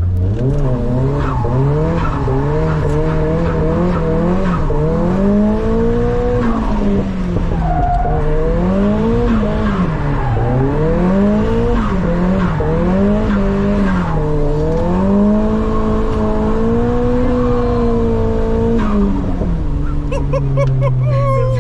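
Nissan S15 Silvia's engine revving up and down again and again under the throttle while drifting, with tyre skid noise; the revs drop and settle near the end.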